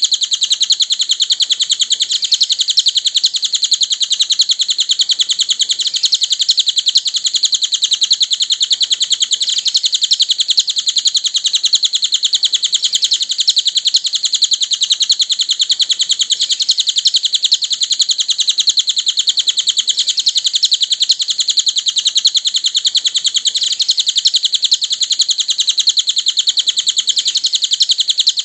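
Cililin bird singing a continuous, very fast, high-pitched chittering trill, repeated without pause and unchanged throughout.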